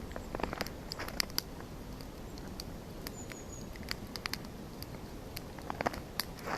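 Campfire crackling: irregular sharp snaps and pops over a steady low noise.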